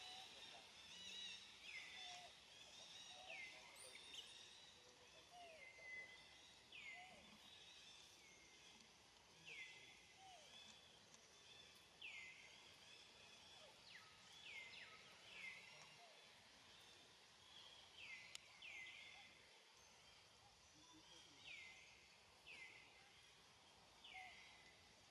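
Faint forest ambience with a bird giving a short, high, downward-sliding call over and over, about once every second or so. A few fainter, lower calls sound in the background in the first half.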